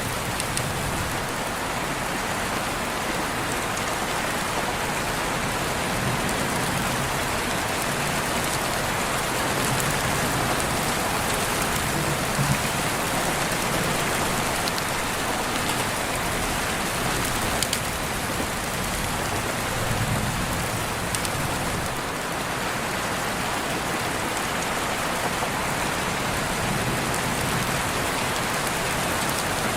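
Steady rain, with scattered drops ticking on surfaces.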